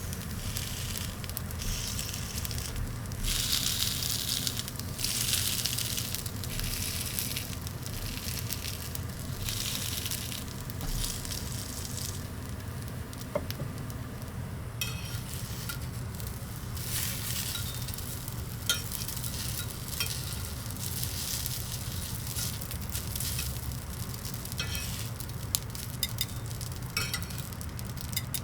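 Food sizzling over charcoal on a small tabletop grill, the hiss swelling and easing in waves during the first half. Later the sizzle settles lower, with scattered sharp pops and ticks, over a steady low hum.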